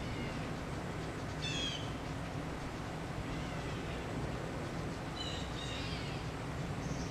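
Bird calls: a quick cluster of high chirps about a second and a half in, and another about five seconds in, over a steady low background rumble.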